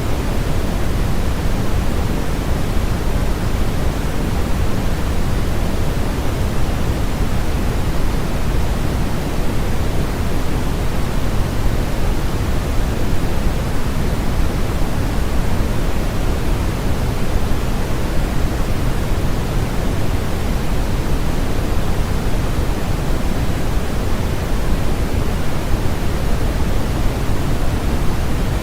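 Steady generated noise for sleep, its energy weighted toward the low end rather than flat, closer to pink noise than pure white. It runs even and unchanging with no other sounds.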